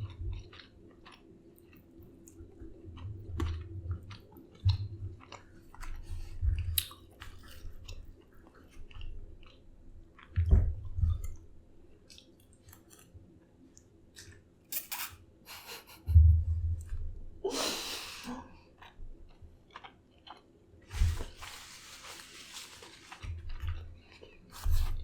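Close-miked chewing and biting of lamb and rice eaten by hand, with many small wet mouth clicks and irregular low thumps. Two brief rustling noises come about two-thirds of the way through.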